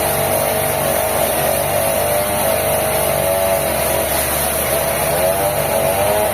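Sawmill machinery running steadily, with a wavering whine from the saw and its motor.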